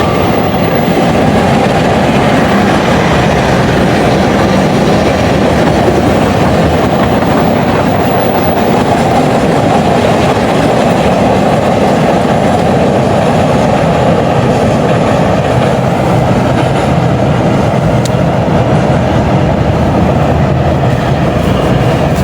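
Kereta Api Indonesia train carriages rolling past close by, a loud, steady rush of steel wheels on the rails that holds its level throughout.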